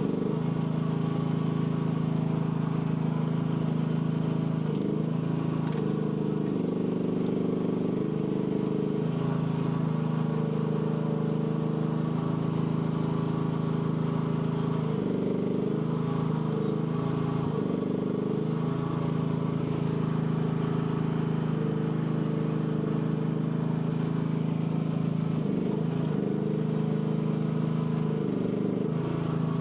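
AGT L12 mini excavator's engine running steadily while its hydraulics are worked, the engine note dipping and wavering several times as the load changes.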